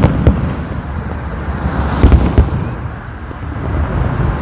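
Aerial fireworks bursting: sharp bangs near the start and a cluster of three about two seconds in, over a continuous low rumble and crackle.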